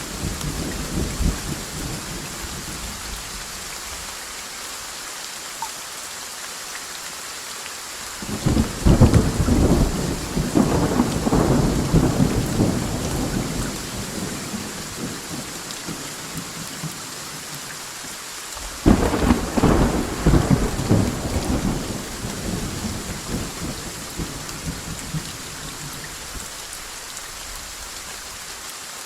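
Steady rain with two claps of thunder, one about eight seconds in and a sharper one that starts suddenly near the middle, each rolling away over several seconds.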